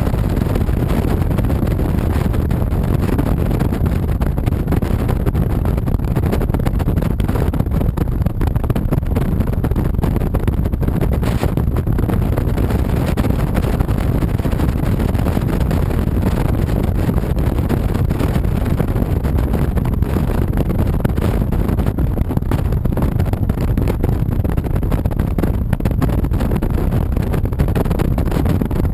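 Steady ride noise from a 2007 Honda VTX 1300C motorcycle: its V-twin engine running at an even pace under wind rushing over the camera's microphone.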